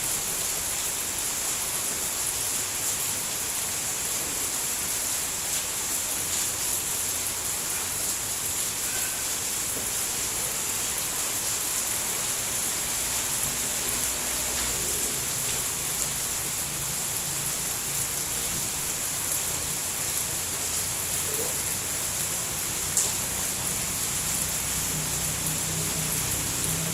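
Steady rain falling, an even hiss. A low hum comes in about halfway through and grows louder toward the end.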